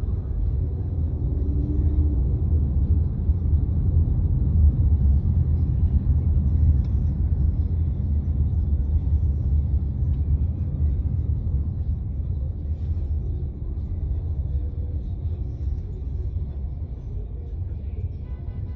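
Low, steady rumble of a truck's engine going by, loudest about five seconds in and slowly fading afterwards.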